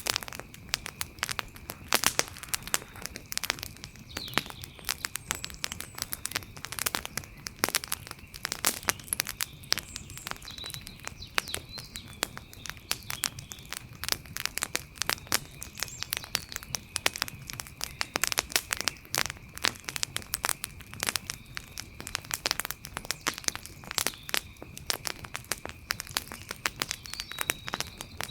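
Wood fire crackling with a dense, irregular run of sharp pops and snaps, over a steady faint high-pitched tone in the background.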